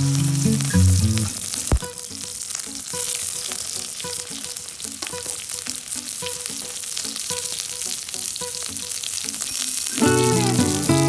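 Food sizzling in a hot pan, a steady hiss, with background music loud at the start and again near the end and faint in between. A single sharp click comes about two seconds in.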